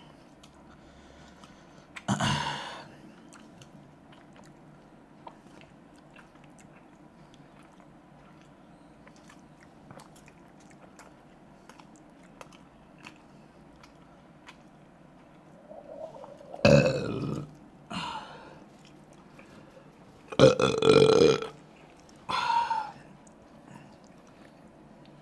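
Close-up eating sounds of steamed chicken momos being chewed, with faint wet mouth clicks. The chewing is broken by loud short burps, one about two seconds in and four more close together in the last third.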